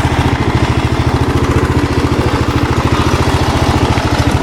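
Small lawn-tractor engine running steadily with an even, rapid putter, no change in speed.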